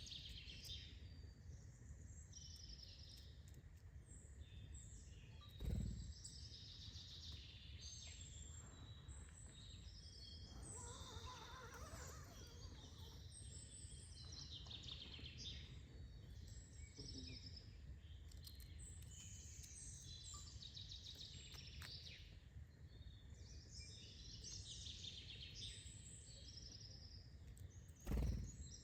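Several small birds chirping and twittering, faint, over a low steady background rumble. Two dull low thumps stand out, about six seconds in and near the end.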